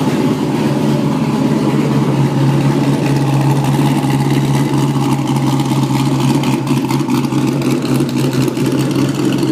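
GM LS3 V8 in a Porsche Boxster idling steadily through open exhaust pipes with the mufflers removed, giving a muscle-car sound.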